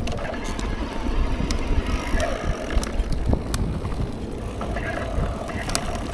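Mountain bike being ridden: a constant uneven rumble of wind and tyre noise on the bike-mounted microphone, with sharp clicks and rattles from the bike over rough ground.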